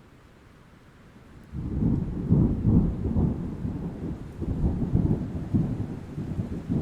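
Thunderstorm: faint rain hiss, then about a second and a half in a loud rolling rumble of thunder breaks in and keeps rumbling, swelling and ebbing.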